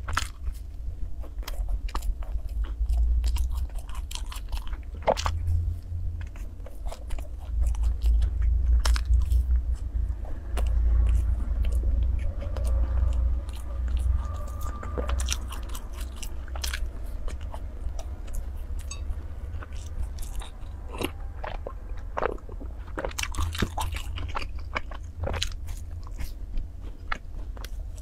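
Close-miked biting and chewing of raisin sachima, the sweet syrup-bound puffed-dough bar. Its sticky crumb gives a run of small sharp clicks and crackles, in clusters.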